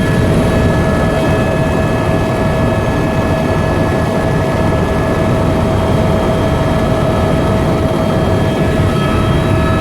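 Tour helicopter in cruising flight, heard from inside the cabin: a steady, loud rotor and turbine noise with a deep rumble and a constant whine.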